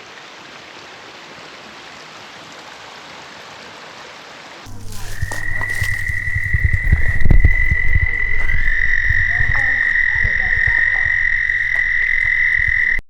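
A creek's small cascade runs with a steady rush for the first few seconds. Then a frog gives a loud, steady, high trill held for about eight seconds, a second similar trill joining partway through, over a low rumble. The sound cuts off abruptly near the end.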